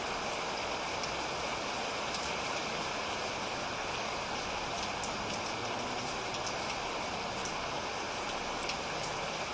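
Steady rain falling, with scattered drips ticking over the hiss and one sharper drip near the end.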